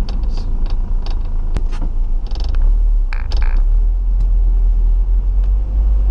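Cab noise of a 1997 Nissan pickup driving on a snowy, icy road: a steady low rumble with scattered clicks and two short hissing bursts about two and three seconds in.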